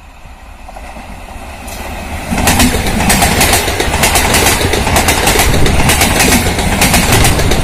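Kolkata–Lalgola MEMU electric train approaching and passing at speed, louder and louder until its coaches reach the microphone about two and a half seconds in. After that comes a loud, fast clatter of wheels over rail joints.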